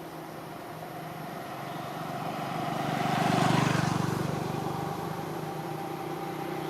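A motor vehicle's engine passing close by, growing louder to a peak about three and a half seconds in, then fading.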